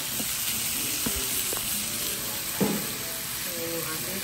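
Marinated chicken pieces and sliced onions sizzling steadily in a hot frying pan, with a single knock about two and a half seconds in.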